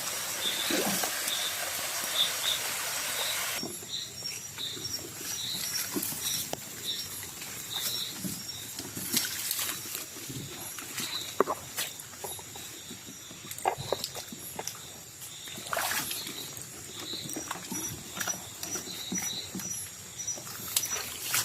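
Night rainforest ambience: insects keep up a steady high-pitched trill with repeated chirps, over scattered rustles and snaps of movement through leaf litter. A broad hiss in the first few seconds cuts off suddenly.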